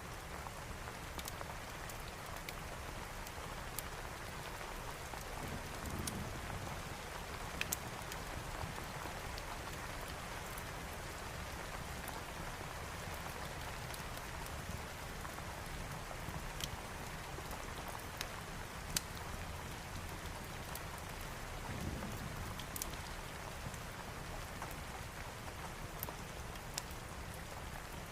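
Steady rain falling, an even hiss with scattered sharp ticks and crackles.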